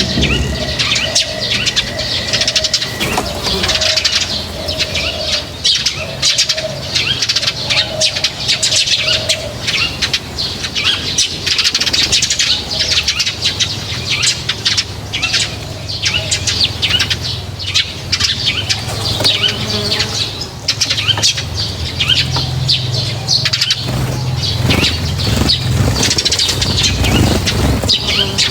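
Many small birds chirping continuously at an outdoor feeder, with wings fluttering and pecking clicks. A softer, repeated dove-like cooing runs under the chirps for about the first third.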